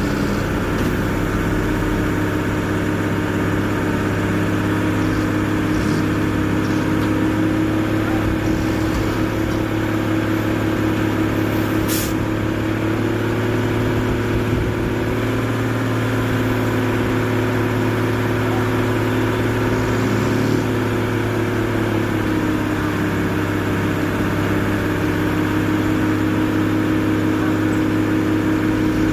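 Tow truck's diesel engine running steadily under load, its revs rising a little in the middle and dropping back about two-thirds of the way through, with one sharp click about twelve seconds in.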